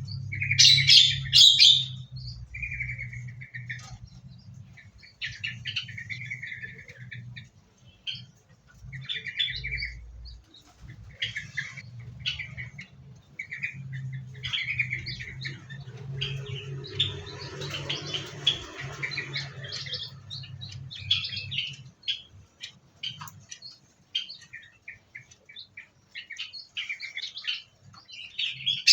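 Small aviary birds chirping and calling, many short chirps overlapping throughout. A low steady hum runs underneath and stops about three-quarters of the way through.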